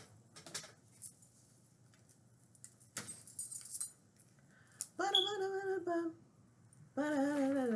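A click and a second of small clinking rustle, then a woman humming two short held notes, the second with a slight waver.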